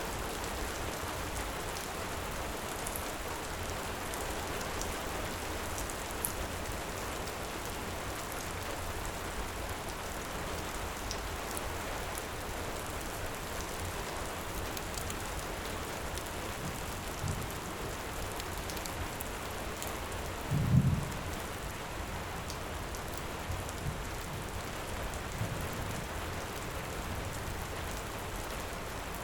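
Steady heavy rain, with a few faint crackles over it. A brief low rumble of thunder comes about two-thirds of the way in, with softer low thumps after it.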